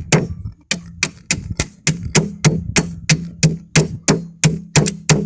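Steady hammer blows, about three a second, bending over the nails in a car tyre against a support underneath, each blow with a short low ring.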